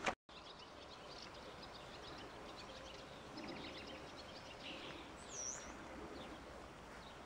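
Small birds chirping and twittering over faint outdoor hiss, with one clear dipping whistle about five seconds in.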